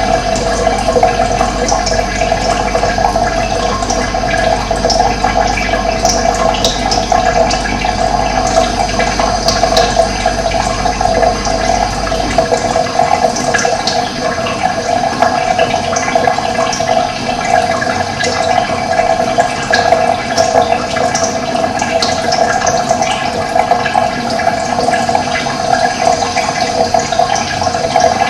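Steady rushing of running water, a stream or small cascade recorded close up. A low rumble beneath it stops about twelve seconds in.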